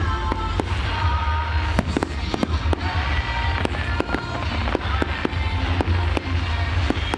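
Fireworks display going off: an irregular series of sharp bangs and crackles over a low rumble, with music playing from distant loudspeakers.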